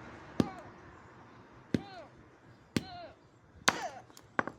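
A hammer striking a plastic toy, about six sharp blows a second or so apart that come closer together near the end. A short falling tone follows most blows.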